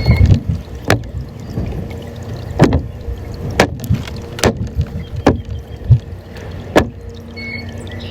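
About six sharp knocks at irregular intervals over a low rumbling noise.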